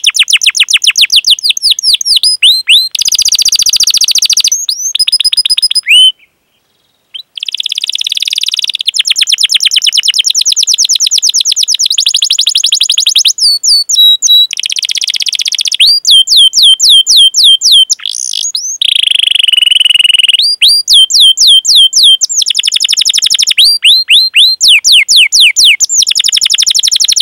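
Domestic canary singing a long song of fast rolling trills and runs of repeated sweeping chirps. The song breaks off briefly about six seconds in, then carries on.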